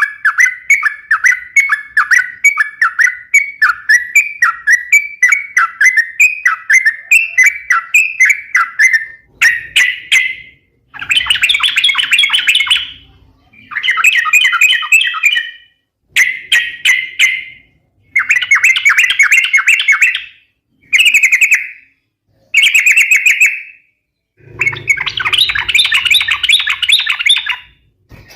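Yellow-vented bulbul singing in full song: a fast run of short downward-sliding notes, about five a second, then from about ten seconds in a string of dense chattering phrases, each one to three seconds long, with short gaps between.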